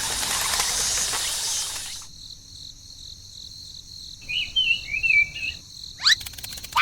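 A steady rushing noise, cut off suddenly about two seconds in and replaced by high steady insect trilling, with a bird chirping a few times over it in the second half.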